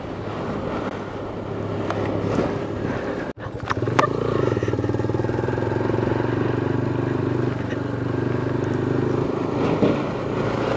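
Motorcycle engine running steadily while riding, with a brief break in the sound about three seconds in.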